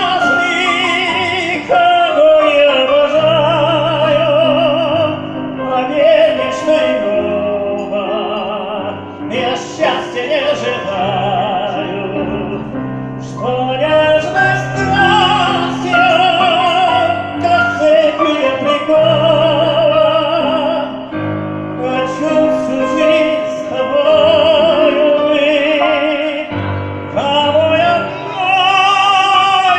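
A singer performing a Russian romance in a full, operatic style, holding long notes with wide vibrato over piano accompaniment.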